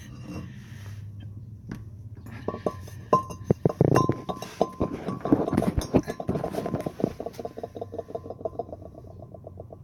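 Ratchet wrench clicking as the bolts of a rear differential cover are backed out, with metallic clinks: irregular at first, then a fast, even run of clicks from about halfway on.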